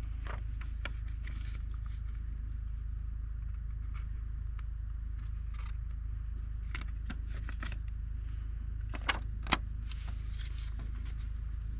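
Scattered light clicks and knocks, like metal parts being handled, over a steady low hum; two sharper knocks come about nine seconds in.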